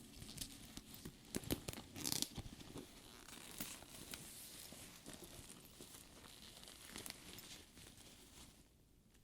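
Fabric lining of a faux leather purse being handled and turned inside out: soft rustling and crinkling with scattered small clicks and creaks. It is busiest about one to two seconds in and quietens near the end.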